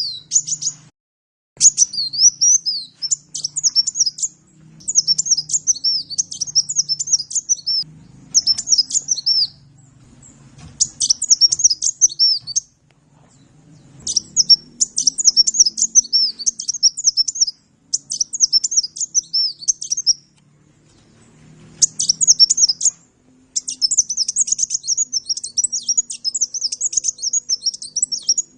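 A sunbird ('kolibri' to Indonesian bird keepers) singing: rapid, high-pitched twittering phrases of quick looping notes, each lasting one to three seconds, broken by short pauses, with a faint low hum beneath.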